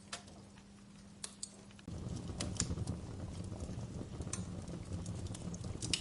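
Fire crackling, with irregular sharp pops and snaps. About two seconds in, a faint steady hum cuts out and a louder low rumble of flame noise starts abruptly under the crackles.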